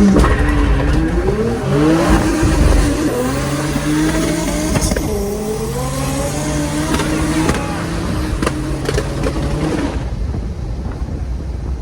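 Two turbocharged drag cars, a big-turbo Honda and an Audi 2.7 biturbo, accelerating flat out through the gears: the engine note climbs, drops at each upshift and climbs again several times, then fades away near the end as the cars pull off down the strip.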